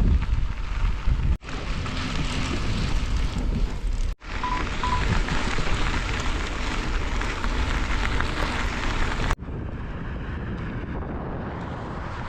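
Wind buffeting the microphone with a steady rumbling rush, changing abruptly three times between cut-together clips, the last part quieter. Two short high beeps sound close together about four and a half seconds in.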